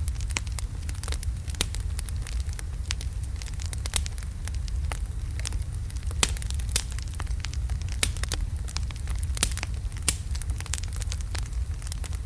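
Wood fire of large logs burning in a fireplace: irregular sharp crackles and pops, several a second, over a steady low rumble.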